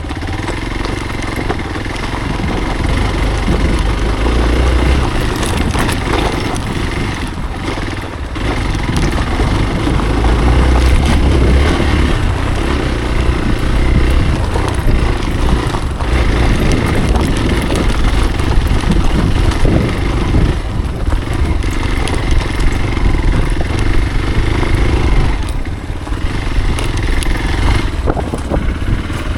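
Hero Xpulse motorcycle's single-cylinder engine running under the rider's throttle on an off-road trail. The sound is loud and continuous and rises and falls, easing off briefly about eight seconds in and again twice in the second half.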